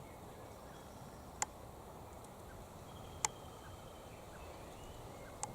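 Two sharp cracks about two seconds apart over faint outdoor background: a king parrot cracking silky oak (Grevillea robusta) seed pods in its beak.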